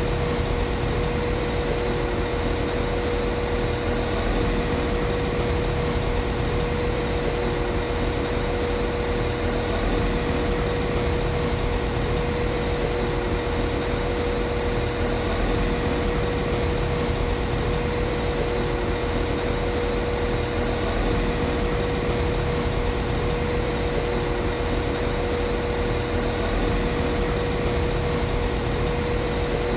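The diesel engine of a Class 195 CAF Civity diesel multiple unit (an MTU six-cylinder underfloor engine) idling steadily, with a constant low rumble and a steady high hum over it.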